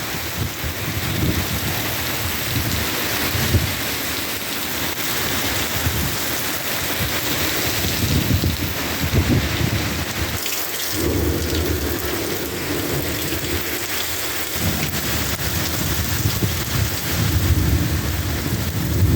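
Heavy rain pouring down in a severe storm, with strong gusting wind and a low rumbling that swells and fades, dropping away briefly about halfway through.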